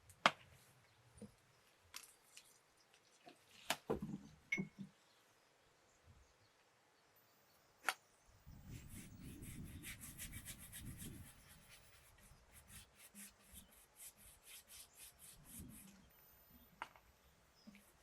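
A brush applying varnish to wooden furniture: faint rubbing strokes on wood, denser for a few seconds in the middle. Scattered light knocks and clicks of handling come before them.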